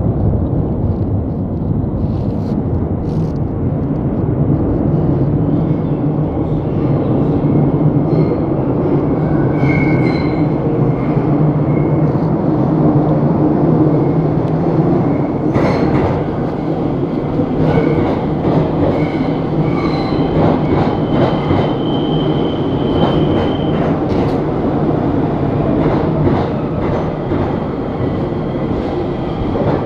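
R62 subway train running on the rails: a loud, steady rumble with brief high-pitched squeals and a run of sharp clicks in the latter half.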